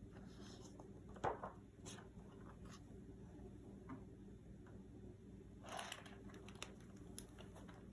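Quiet room tone with a low hum, broken by a sharp click just over a second in, a few faint ticks, and a brief rustle about six seconds in.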